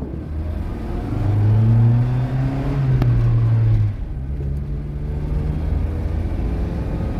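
A motor vehicle engine running; it picks up and rises slightly in pitch about a second in, then eases off abruptly a little past halfway and keeps running more quietly.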